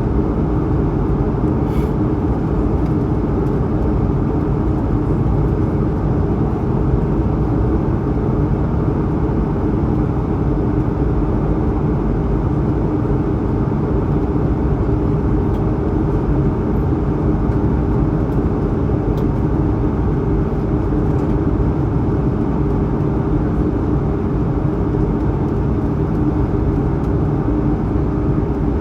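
Steady engine and airflow noise heard inside the cabin of an Airbus A220-100 climbing after takeoff, its Pratt & Whitney PW1500G geared turbofans at climb power. Under the noise runs a low hum of a few steady tones.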